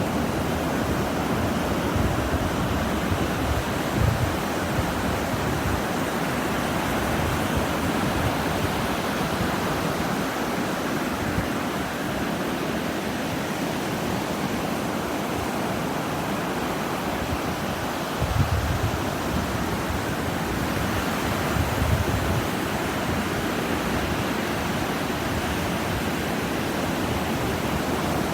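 Ocean surf on a beach: a steady wash of breaking waves, with a few short low rumbles of wind on the microphone.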